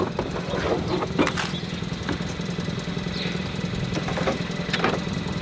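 A car engine idling steadily, with a few sharp knocks and clunks as folding tables and chairs are handled at a car's open rear door.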